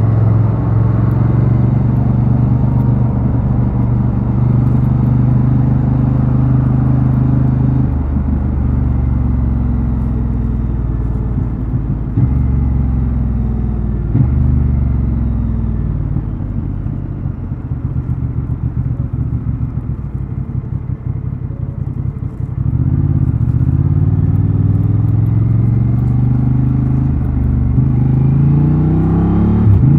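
Honda Transalp XL750 parallel-twin engine and exhaust under way. It runs at a steady pitch at first, then falls away and runs low and uneven for several seconds, with two short clicks. Then it picks up again and its pitch climbs steeply near the end as the bike accelerates.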